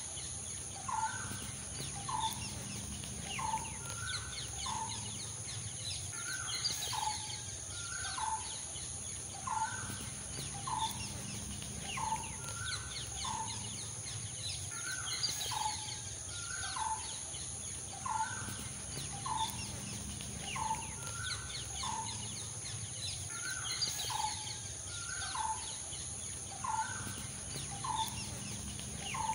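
Bird calls: a short rising call repeated over and over at a steady pace, with faint higher chirping behind it.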